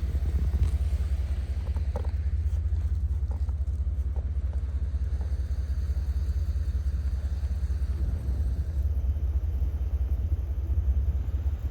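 Blizzard wind buffeting the microphone: a steady, loud low rumble.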